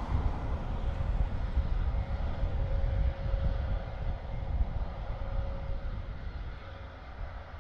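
Airbus A400M's four turboprop engines running steadily at ground idle before the takeoff run, a low drone with a held tone that fades out about six seconds in.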